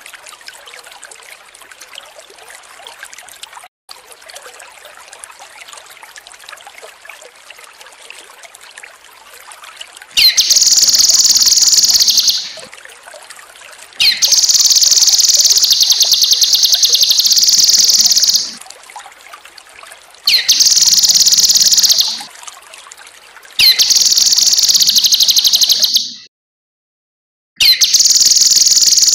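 Trickling water for the first ten seconds or so, then a cucak kinoi singing loud, high, rapid phrases in five bursts of two to four seconds each, with the water trickling in the gaps between them.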